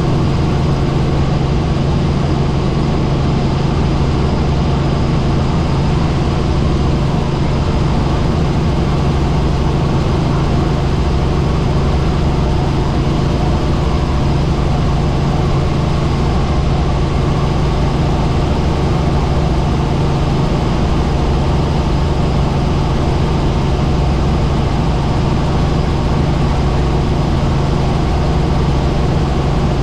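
Helicopter in flight: steady rotor and engine noise, a constant low drone with a strong unchanging hum beneath it.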